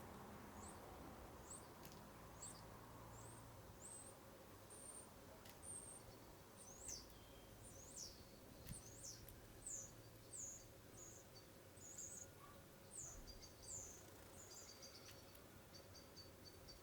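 A small songbird singing faintly: a long run of thin, high chirps and quick downward-sweeping notes, ending in a fast run of rapid short notes.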